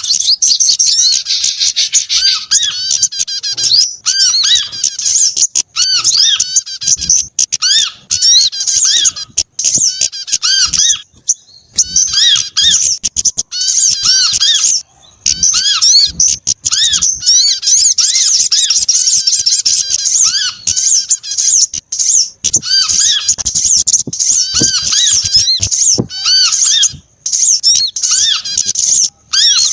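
Bird-lure recording of a mix of small songbirds calling. It is a loud, unbroken stream of rapid high chirps and trills, with repeated short arching notes lower down. There are brief pauses about eleven and fifteen seconds in.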